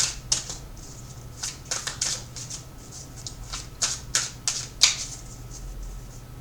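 Tarot cards being shuffled and handled: a run of irregular crisp snaps and flicks that stops about five seconds in.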